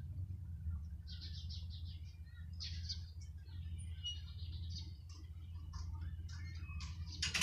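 Small birds chirping in short, rapid trills, several runs of quick notes, over a steady low rumble, with a louder burst of sound right at the end.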